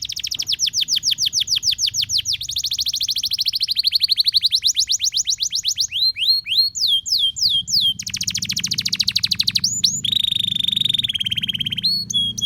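Domestic canary singing a long, vigorous song: a fast trill of rapidly repeated high notes for about six seconds, then a few sliding whistles, another quick trill and a buzzy rolling phrase near the end.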